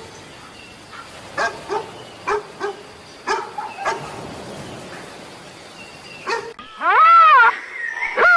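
A dog barking, about nine short sharp barks spaced irregularly. About six and a half seconds in they give way to a different animal's loud, drawn-out call that rises and falls in pitch, heard twice.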